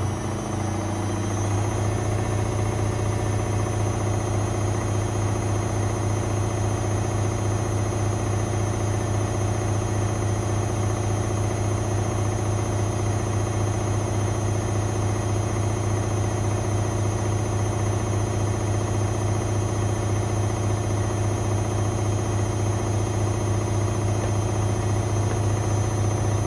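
A privileg 5020 washing machine's drum spinning at a steady high speed, its motor giving a constant hum and whine that settles within the first second or two. The motor sounds somewhat worn from years of use.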